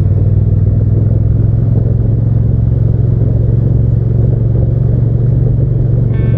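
Hyosung GT650's V-twin engine running at a steady road speed, a constant low drone with no change in pitch.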